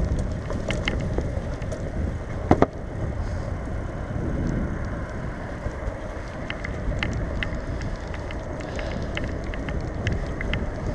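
Bicycle being ridden, heard from the bike itself: a steady low rush of wind and tyre noise with scattered small clicks, and a sharp double knock about two and a half seconds in.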